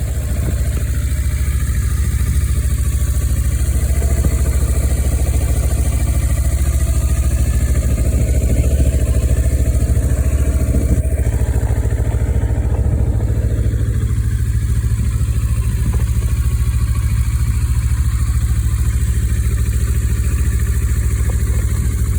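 2009 Kawasaki Versys 650's parallel-twin engine idling steadily, just started from cold.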